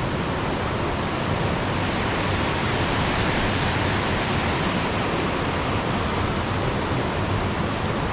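Steady rush of a waterfall: water cascading between boulders and dropping into a splash pool.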